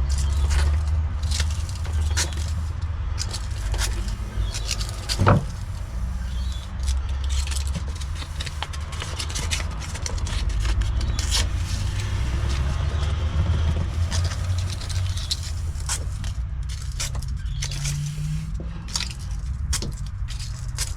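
Sandpaper rubbing on corroded copper wires to take the oxidisation off: scratchy scraping with many small clicks and ticks of the wires being handled, over a steady low rumble.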